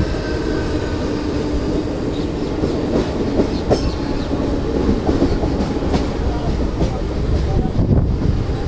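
Mumbai suburban electric local train running along the track, heard from an open doorway: a steady, dense rumble of wheels on rails with a few sharp clicks and clacks scattered through.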